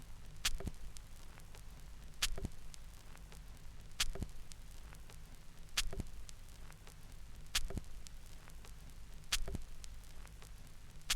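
Vinyl LP's run-out groove at 33⅓ rpm: the stylus clicks once per revolution, about every 1.8 seconds, over a low steady hum and surface hiss.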